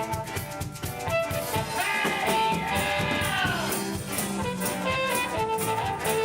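A band playing live, with drum kit and guitar under a lead melody that slides down in pitch about three seconds in.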